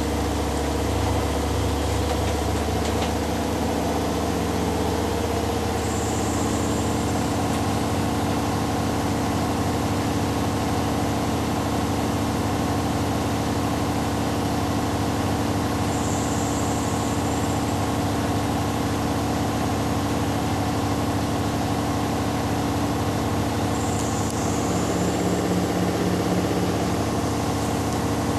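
Front-loading washing machines in their final spin, with a steady motor hum and drum whirr. The pitch shifts within the first few seconds, and a brief high chirp comes about every eight to ten seconds.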